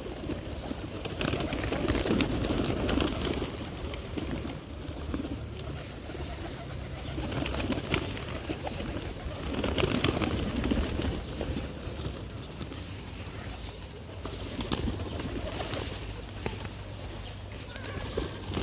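Pigeons cooing: low, throaty coos that rise and fade every few seconds, with scattered sharp clicks among them.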